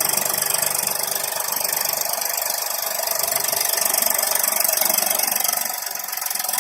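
Eicher 380 tractor's diesel engine running steadily with a rattle. The sound eases off briefly near the end.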